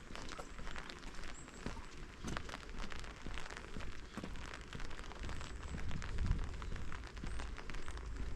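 Rain falling: a steady, dense crackle of drops hitting close by, with a low rumble swelling about six seconds in.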